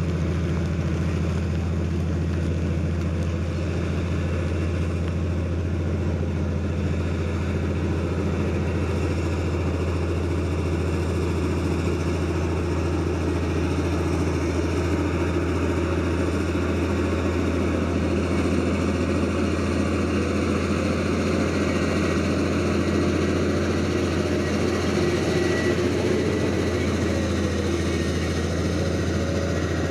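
Heavy diesel engine of earthmoving machinery running steadily at an even speed, with a constant low hum.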